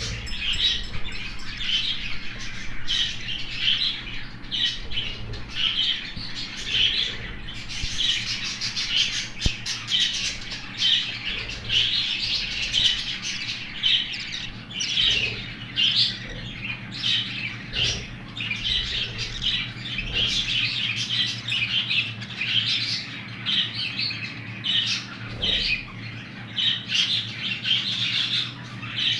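Budgerigar chicks calling: a continuous run of short, high-pitched squawking calls, several a second, without a break.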